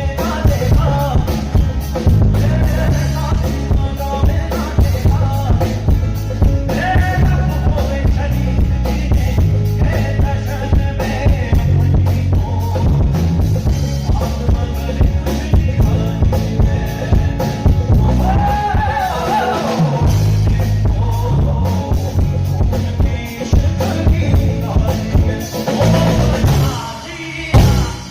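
Live band playing at a sound check: a drum kit with kick drum and rimshots over keyboard, with a male voice singing. The music dips briefly near the end.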